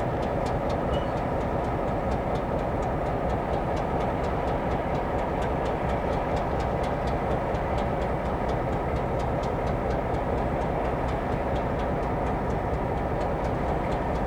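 Freight train moving on the track: a steady rumble of locomotive and cars, with many light clicks from wheels and rail throughout.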